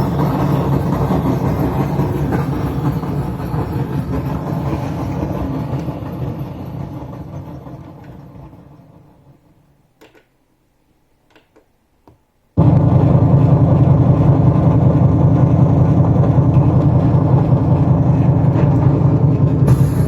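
Dense, rumbling sound from a Korg Pa arranger keyboard, the faulty sound the title points to. It fades out over a few seconds, leaves a short near-silence with a few faint clicks, then cuts back in suddenly at full loudness.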